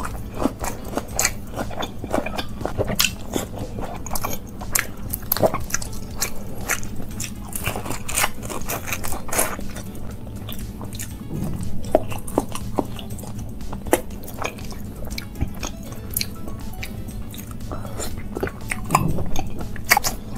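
Close-miked eating sounds: crisp bites, crunches and wet chewing of an Indian meal of rice, meat curry and fried pieces eaten by hand, coming as an irregular run of clicks and crunches.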